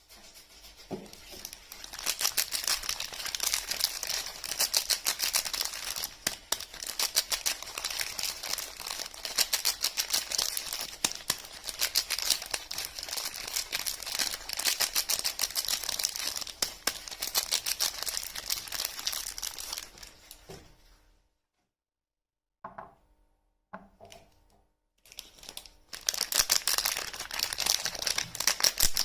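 Soap packaging wrappers crinkling and tearing as soap bars are unwrapped by hand: a long stretch of dense crackling, a pause broken by a few separate handling knocks, then crinkling again near the end.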